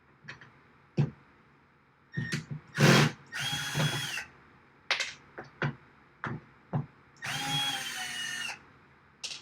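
Power drill run in two short bursts of about a second each, a steady motor whine, driving screws out of the rack's rails, with sharp knocks and clicks of handling between the bursts.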